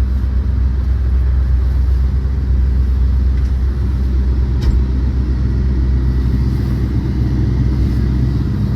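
Pickup truck engine idling steadily, a constant low rumble heard from inside the cab.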